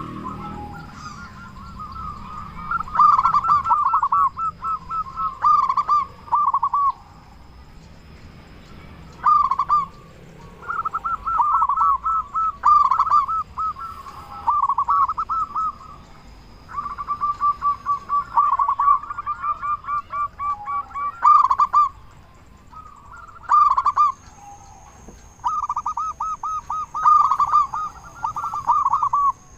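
Local perkutut (zebra dove) cooing: phrases of quick rolling coos, each a second or two long, repeated with short pauses between them.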